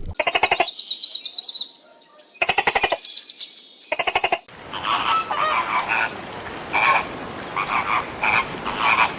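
Animal calls: three short trains of rapid pulses with gaps between them, then a denser run of repeated calls overlapping one another.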